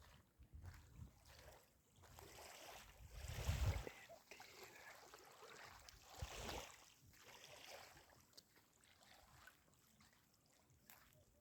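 Faint water and wind on a small boat: gusts of wind buffeting the microphone, the strongest about three and a half seconds in, and a short rush of water about six and a half seconds in.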